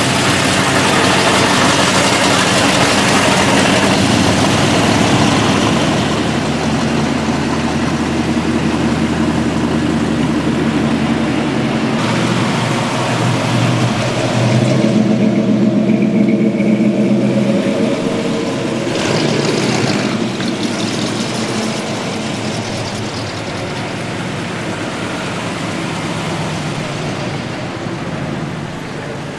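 Classic American cars driving past one after another, their engines running loudly. The engine sound changes abruptly a few times, about halfway through and again later, as one car's sound gives way to the next.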